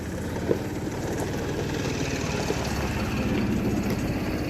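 A vehicle engine running nearby: a steady low rumble that grows gradually louder.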